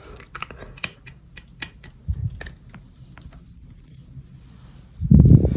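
Close-up crackling and crunching of dry sand as a spoon cuts and scoops through it, in quick sharp clicks. A soft low thud comes about two seconds in, and a heavier low thud near the end is the loudest sound.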